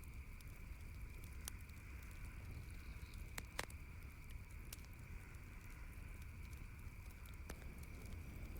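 Campfire crackling, with scattered sharp pops, the loudest about three and a half seconds in, over a steady low rumble and faint hiss.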